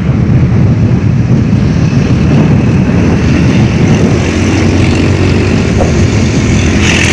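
Loud, steady rumble of a strong windstorm gusting over the microphone, with a motor vehicle's engine running underneath.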